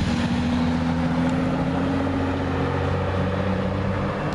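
Nissan GT-R R35's twin-turbo V6 running at steady revs as the car drives by, a loud, even engine note.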